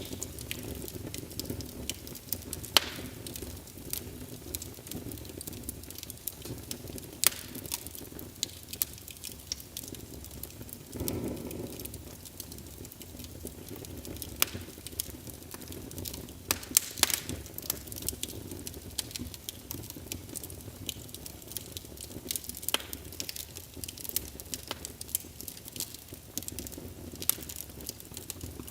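Wood fire in a fireplace burning steadily, with irregular sharp crackles and pops over a low, steady rumble of the flames, and a brief louder whoosh about eleven seconds in.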